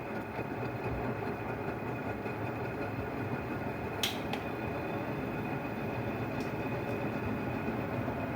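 Washing machine running its cleaning cycle, a steady mechanical noise with a faint constant whine, and one sharp click about four seconds in.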